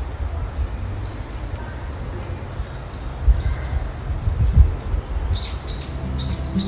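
Wild forest birds calling now and then, short high notes that slide downward, over a steady low rumble; the calls come thicker about five seconds in. Near the end, gentle guitar music begins.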